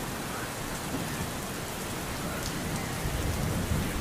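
Steady rain falling, with a low rumble of thunder starting to build near the end.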